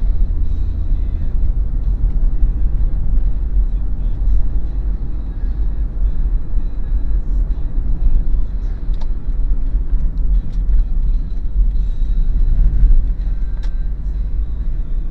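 Steady low road and engine rumble inside the cabin of a moving Daihatsu Terios, with a few faint ticks.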